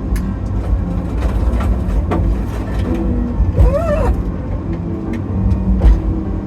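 Tigercat 850 processor's engine and hydraulics running with a steady low rumble as the 568 processing head handles a log, with sharp knocks and clacks every so often and a brief wavering squeal a little past halfway.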